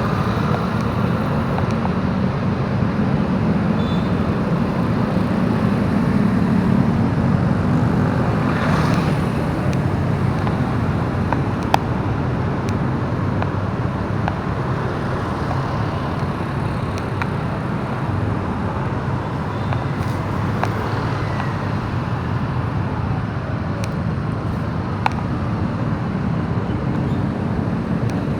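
Motorbike running steadily on the road in traffic, a continuous low rumble with road noise, and two brief clicks about 12 and 25 seconds in.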